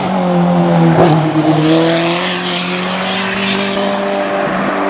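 Hill-climb race car engine running hard at high revs. Its pitch drops near the start and again about a second in, then holds steady.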